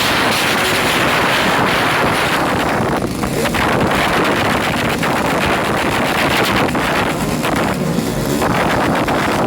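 Motorcycle engines running loud at high revs, with wind buffeting the microphone.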